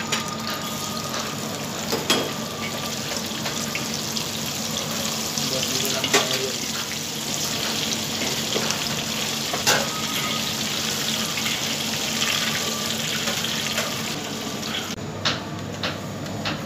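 Sliced red chillies frying in hot oil in a wok: a steady sizzle, with a few sharp clinks of metal cooking chopsticks against the wok. The sizzle drops away near the end.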